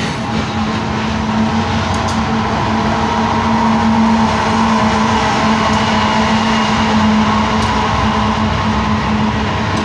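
Diesel locomotive running mid-train in a passing freight train, its engine giving a steady hum over the noise of wheels on rails, growing a little louder as the unit goes by about halfway through.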